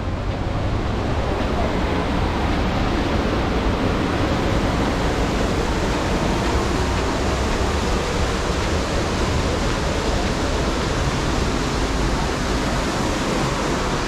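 Fast-flowing mountain river water rushing steadily: a loud, even wash of noise without breaks.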